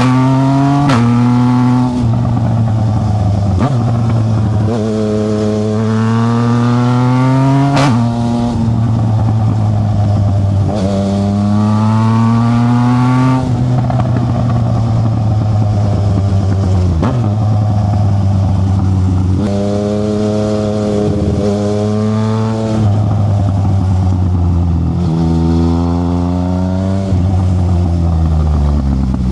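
Yamaha Tracer 900 GT's three-cylinder engine through a Black Widow aftermarket exhaust, pulling under load. Its pitch climbs several times as the bike accelerates and drops sharply at each gear change, with steadier cruising stretches in between.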